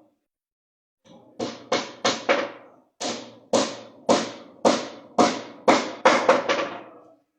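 Hammer striking wood in a run of about a dozen blows, a few quick ones and then a steadier series, each with a short ringing decay: typical of nailing a wooden box or cabinet joint together.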